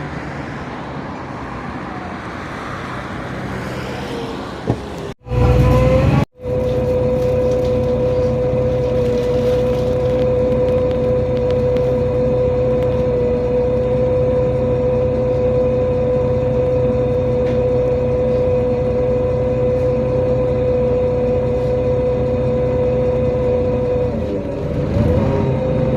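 Inside a NefAZ-5299 city bus: the drivetrain runs with a rumble and a strong steady whine, and the pitches start to climb near the end as the bus begins to accelerate. About five seconds in, the sound cuts out twice around a short loud burst.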